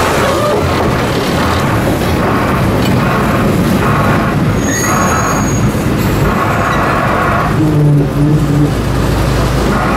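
The diesel-powered Botchan Ressha replica steam train running along street tram rails, a steady rolling rumble with a regular pulse about every three-quarters of a second. About eight seconds in, a low tone sounds for about a second.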